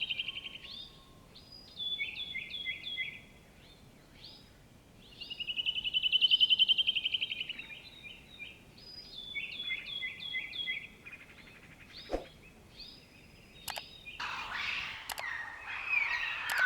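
A songbird singing the same phrase twice, about five seconds apart: a fast trill that swells in loudness, then a run of short, quick, falling notes. Near the end, a louder jumble of chirps and clicks takes over.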